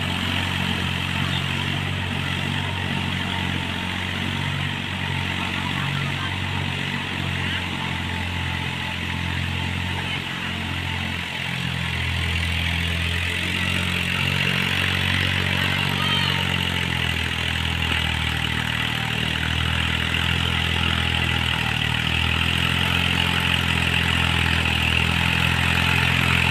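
Eicher tractor's diesel engine running steadily while cultivating a field, its note wavering slightly and growing a little louder toward the end.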